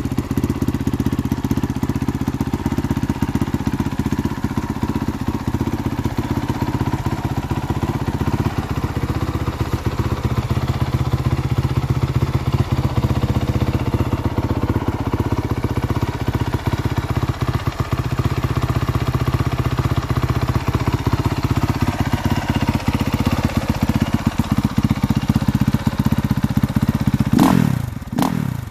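2019 Honda CRF450R's 450 cc single-cylinder four-stroke engine running steadily at idle on its first run since new, with a few quick throttle blips near the end.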